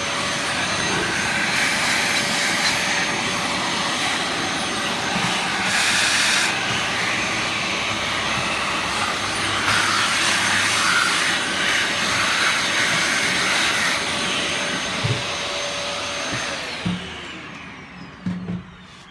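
An electric vacuum-type motor running at a steady high whine, then switched off and spinning down near the end with a falling pitch.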